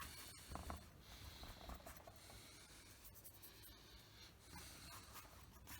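Near silence with faint rubbing strokes of a paintbrush laying acrylic paint on the painting surface.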